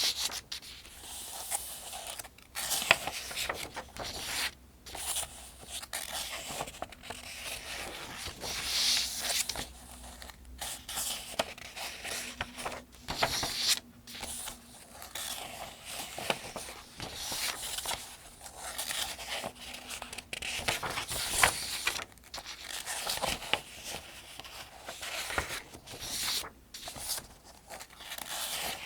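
Pages of a paper almanac being turned one after another, each turn a crisp rustle and flick of thin paper, at a steady unhurried pace.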